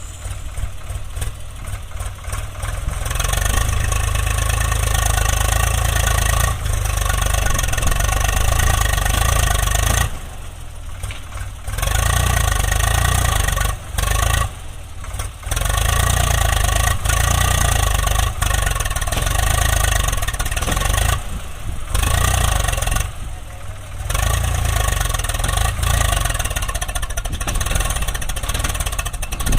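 Heavy diesel engine running hard, its deep sound cut off abruptly several times for a second or two.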